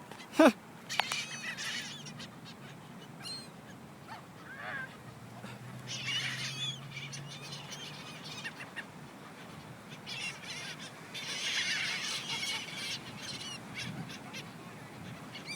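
A flock of seagulls calling, with one loud call falling in pitch near the start, then bursts of many overlapping squawks about a second in, around six seconds in, and from about ten to thirteen seconds.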